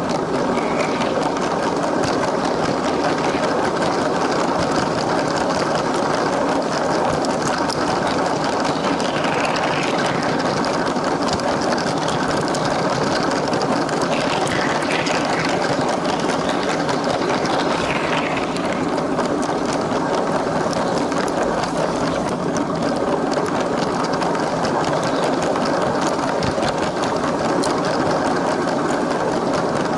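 A LEGO train's small electric motor whirring steadily as the train rolls along plastic track, with a few faint higher squeals in the middle.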